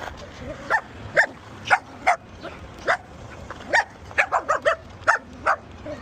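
A dog barking repeatedly, about a dozen short barks at irregular spacing, with a quick run of them around four seconds in.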